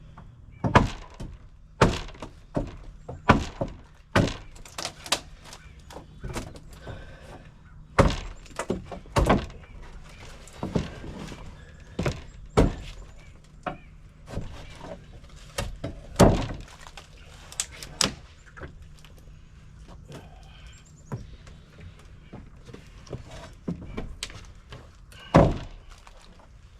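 Wooden deck boards being knocked and pried loose by hand: a long run of irregular wooden thunks and bangs, with a few harder blows about a third of the way in and near the end.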